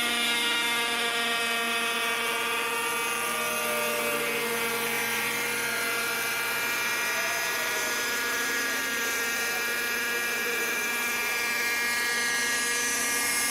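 Radio-controlled model aircraft engine running steadily at high revs: a buzzing whine with many overtones, its pitch holding nearly constant.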